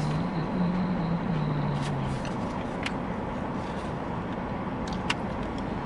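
Steady car or traffic noise, with a low hum of a voice in the first two seconds and a few sharp clicks, one a little after two seconds, one at about three and one at about five seconds.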